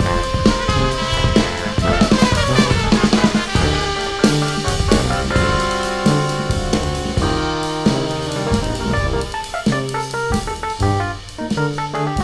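Instrumental jazz from a brass band: horns holding and shifting chords over a drum kit playing steady strokes with bass drum and snare.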